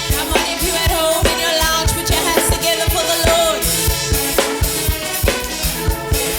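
Worship band music with a drum kit keeping a steady beat, with bass drum and snare.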